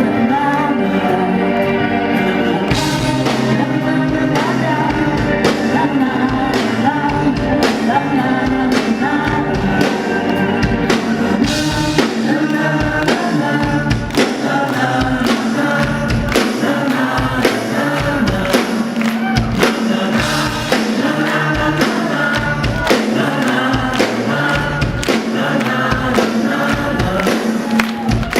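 Live band performing a pop-rock song with vocals over a steady kick-drum beat.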